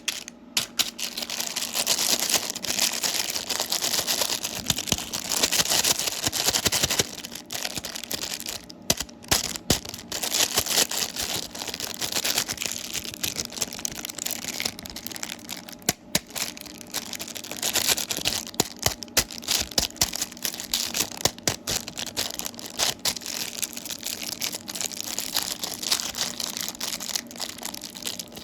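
Plastic candy wrappers being crinkled and torn open: a continuous crackling with many sharp snaps and clicks.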